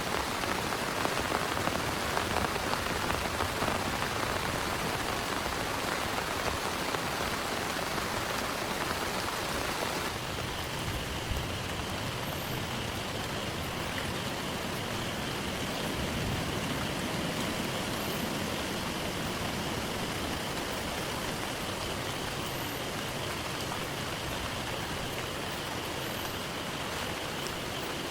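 Heavy rain falling steadily, a dense hiss of drops pattering on surfaces. About ten seconds in it turns slightly softer and steadier.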